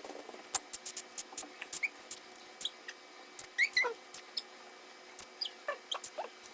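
A cockatiel making short, squeaky chirps that slide in pitch, among a run of sharp clicks.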